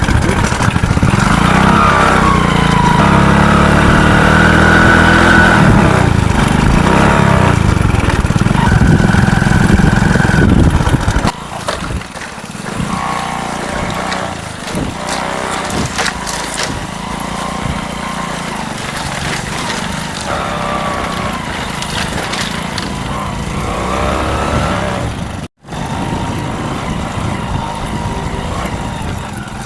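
A motor engine running loudly for about the first eleven seconds, then cutting off abruptly to a quieter mix of sounds, with a brief gap of silence a few seconds before the end.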